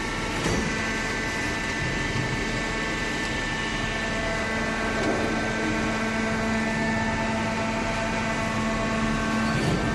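Hydraulic cardboard baler's pump motor running with a steady hum. Brief clicks come about half a second in and again near the end, where the hum's tone shifts slightly.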